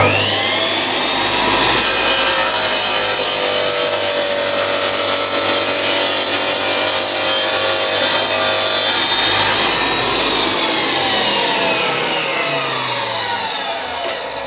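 DeWalt D24000 wet masonry saw starting up with a rising whine, its blade cutting a chamfer into a brick for about eight seconds, then the motor switched off and the blade winding down with a falling whine.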